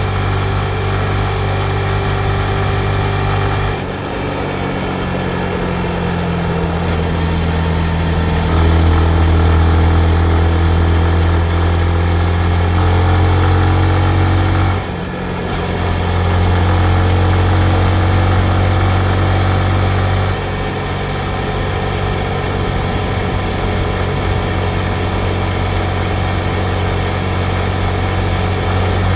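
Yamaha MT-15's single-cylinder 155 cc engine running while the motorcycle is ridden, its note stepping up and down with throttle several times. There is a brief drop in the engine sound about halfway through.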